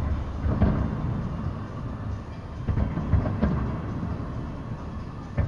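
Distant aerial fireworks: irregular booms, about five in all, over a continuous low rumble.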